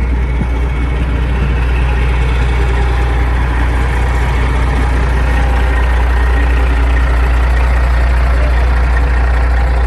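Heavy truck's diesel engine running with a steady low drone, growing a little louder about halfway through.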